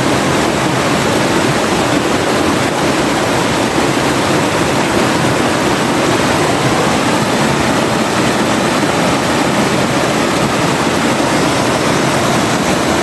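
Forest river flowing, a steady loud rush of water without let-up.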